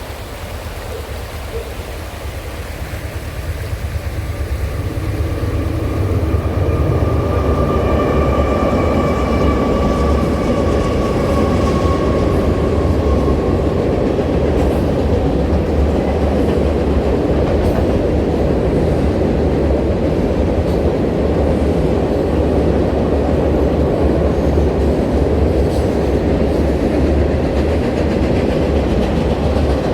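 A train passing close by: the rumble and rail noise build over the first several seconds, then hold steady and loud as the cars roll past. A thin ringing tone comes in about seven seconds in and fades out some seconds later.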